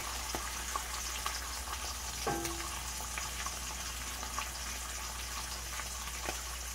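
Tilapia fillets and onions frying in olive oil in a cast-iron skillet: a steady sizzle with scattered small pops and crackles, and one brief knock about two seconds in.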